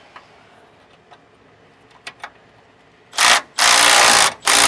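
A few faint clicks, then from about three seconds in a tool being worked in four loud rasping bursts, each under a second long, with short gaps between them.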